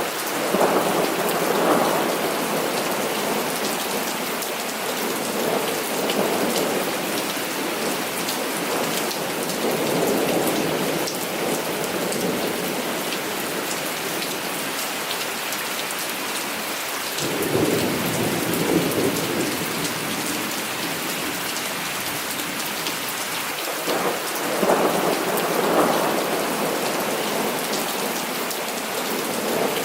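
Heavy rain falling steadily, with thunder rolling in repeatedly over it in several swelling rumbles; one starts suddenly a little past halfway and is among the loudest.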